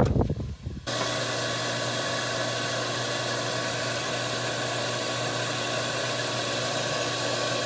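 Water running hard from an open tap on a freshly repaired water line, a steady loud hiss after an uneven start, cutting off sharply near the end. It is being run to flush air and debris out of the pipes.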